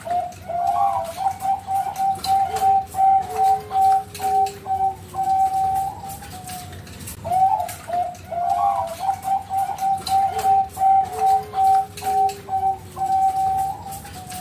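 Bangkok perkutut (zebra dove) singing its cooing song twice, each phrase about six seconds long: a few rising notes, then a long run of quick, even staccato coos.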